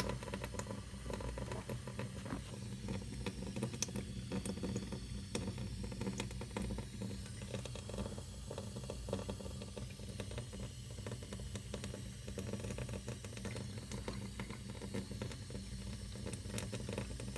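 Tap water running steadily into a stainless steel sink.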